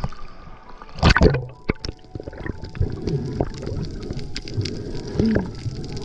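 Water splashing and gurgling, with a loud splash about a second in followed by choppy, irregular sloshing.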